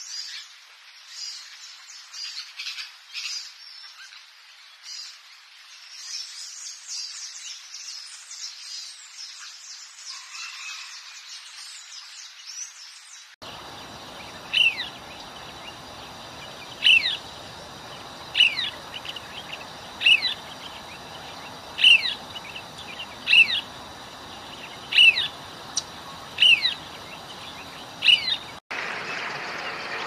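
Small green parakeets twittering in a quick run of high chirps. After a cut, a single perched bird gives one sharp, downward call about every second and a half, about ten times, over a steady hiss.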